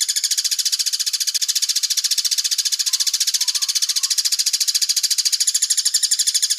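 A songbird's fast, even trill of sharp high notes, repeating steadily without a break, as used in a masteran recording for training caged birds.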